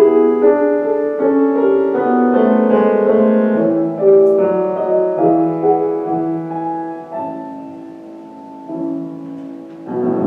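Live classical instrumental music with the piano prominent, a run of notes that grows softer toward the end before a louder chord is struck near the end.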